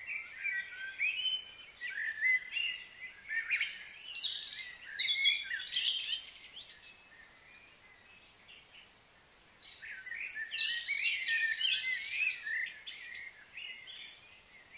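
Songbirds chirping and calling in quick, varied notes, in two busy bouts with a lull of about two seconds midway.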